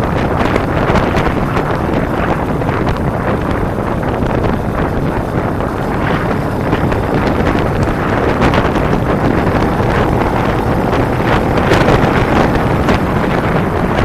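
Loud, steady wind rush buffeting the microphone on a moving motorcycle.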